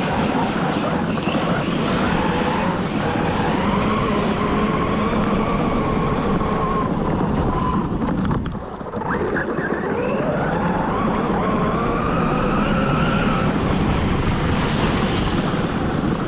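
RC car's electric motor whining as it is driven hard, with drivetrain and tyre noise. The whine rises and falls in pitch with the throttle and drops away briefly about eight seconds in before climbing again.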